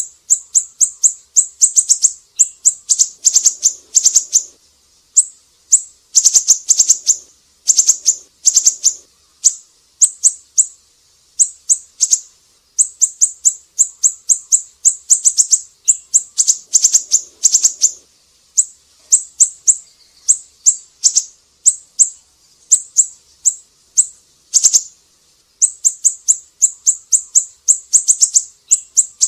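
A siri-siri songbird singing: rapid high-pitched chirps in quick runs of several notes, broken by short pauses.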